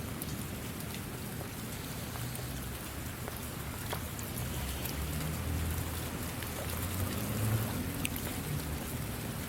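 Steady rain falling, with scattered drops ticking on a surface and a low rumble underneath.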